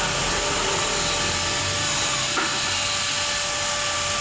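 Pressure washer spraying an engine bay: a steady hiss with a constant thin whine under it.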